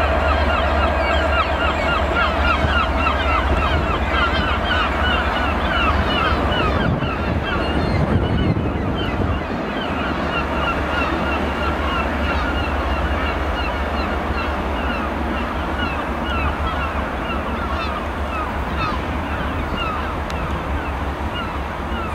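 Transport for Wales Mark 4 coaches and driving van trailer rolling past on a far track: a steady low rumble with many short high squeals.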